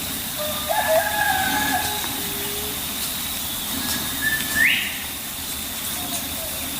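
Whistled bird calls: a held note about a second in, and a short note that rises sharply past the middle, over a steady hiss.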